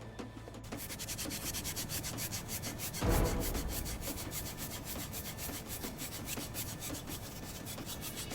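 Rapid, rhythmic rubbing strokes against a surface, getting louder about three seconds in.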